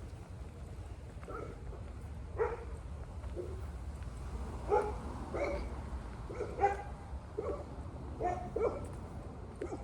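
A dog barking, about ten short barks at uneven intervals, over a steady low rumble.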